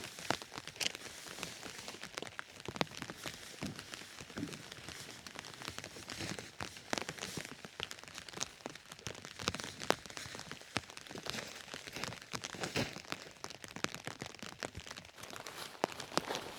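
Rain falling, with many irregular crinkly taps and crackles throughout.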